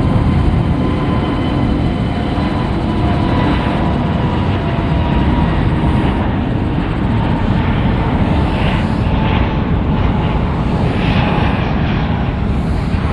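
Airbus A380's four Rolls-Royce Trent 900 turbofans at takeoff power: a loud, steady jet rumble with high whining fan tones over it.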